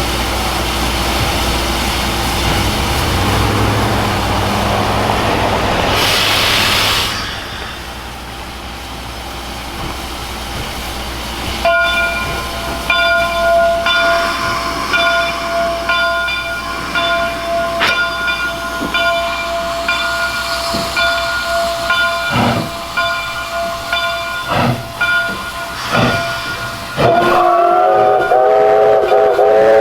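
Steam locomotive running with a rumble and hiss of steam, and a short louder blast of hiss about six seconds in. From about twelve seconds a bell rings repeatedly. Near the end the steam whistle blows a loud chord.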